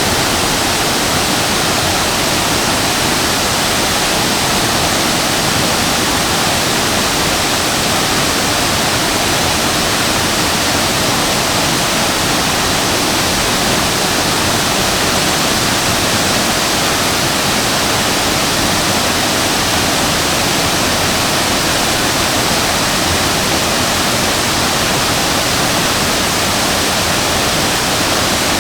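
Waterfall pouring into its plunge pool, a steady, loud, unbroken rush of falling water.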